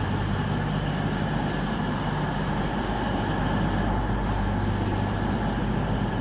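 Cross Country Class 221 Super Voyager diesel-electric unit running at the platform, its underfloor diesel engines giving a steady low drone.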